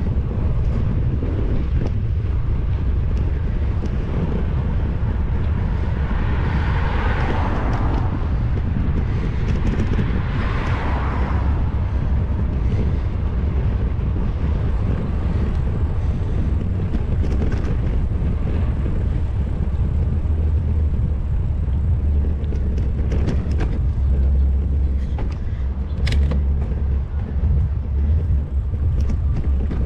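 Steady low wind rumble on a GoPro's microphone while cycling, with two vehicles passing about seven and eleven seconds in.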